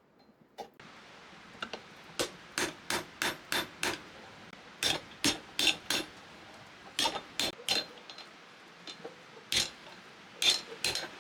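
Hammer blows on a steel suspension spring being straightened, sharp metallic strikes with a ring, coming in quick runs of three to five with short pauses between.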